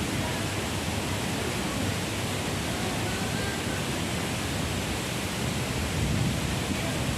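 Strong wind, a steady rushing noise with gusts rumbling against the microphone, loudest about six seconds in.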